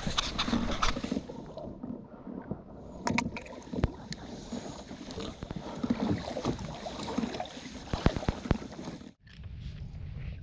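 Water sloshing against a small plastic kayak's hull, with scattered sharp knocks and clicks. The sound drops out briefly about nine seconds in, and is steadier and duller afterwards.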